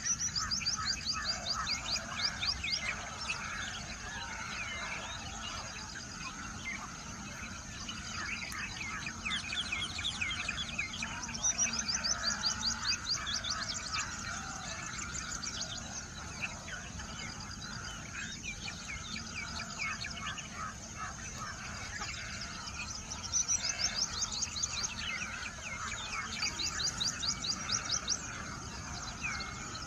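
Small songbirds chirping and singing together, several voices overlapping, with bursts of fast trills of rapidly repeated high notes coming and going.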